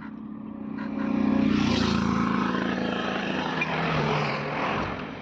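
Small ATV engine running under way, getting louder about a second in, then dropping in pitch near the end as it eases off, with noise from air and sand over it.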